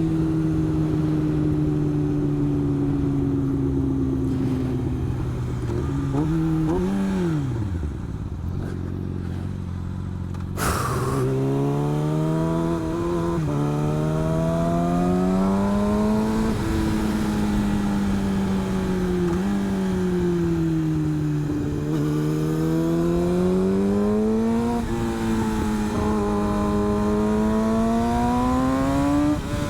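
Motorcycle engine heard from the rider's helmet: revs fall steadily for several seconds, blip once, and settle low. A sudden loud rush comes about ten seconds in, then the engine pulls away again, revs climbing and dropping over and over with gear changes.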